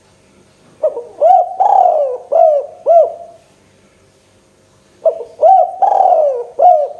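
Spotted dove (tekukur) singing: two cooing phrases of four or five rounded coos each, with a longer drawn-out coo in the middle of each phrase.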